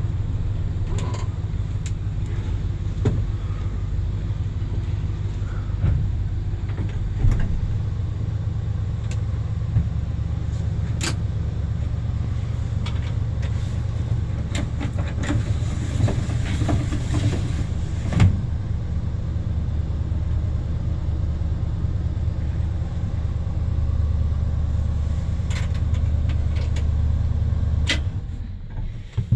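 1973 Ford F100's 302 V8 engine running steadily, with a few clicks and knocks over it, then shut off suddenly near the end.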